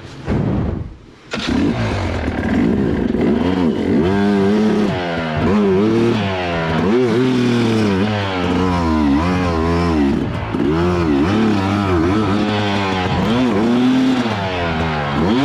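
Two-stroke dirt bike engine revved in short, repeated bursts, its pitch rising and falling about once a second. It comes in sharply about a second in, after a brief quieter moment.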